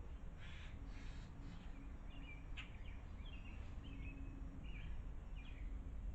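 Small birds giving a series of short chirps in the second half over a steady low outdoor rumble, with a few brief scratchy noises in the first second or so.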